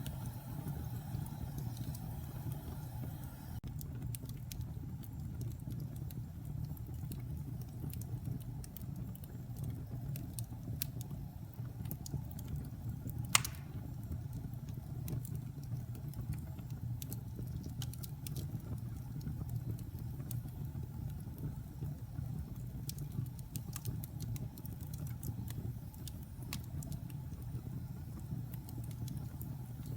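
Wood fire burning in a fireplace: a steady low rumble of flames with scattered small crackles from damp pine logs, and one sharp loud pop about thirteen seconds in.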